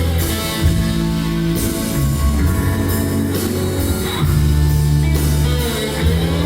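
Band playing an instrumental passage: guitar over sustained bass notes and chords.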